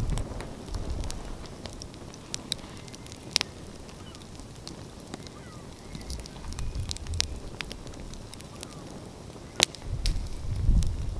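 Outdoor wood fire crackling, with scattered sharp pops, two of them louder about three seconds in and near the end. A low rumble swells and fades underneath several times.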